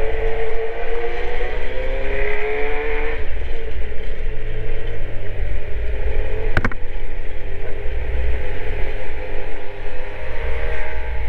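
Kawasaki Z900 inline-four engine pulling away under acceleration, its note rising for about three seconds, then dropping at a gear change before running on steadier. There is a sharp click about six and a half seconds in.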